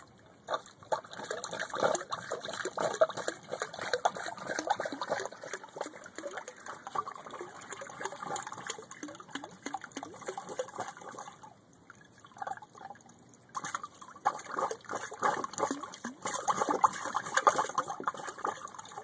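Shower sump pump discharge splashing out of a through-hull fitting on a boat's side, easing off about twelve seconds in and then picking up again.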